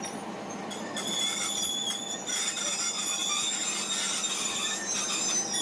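Train squealing: several steady high-pitched metallic tones held over a continuous low rumble from the rolling stock.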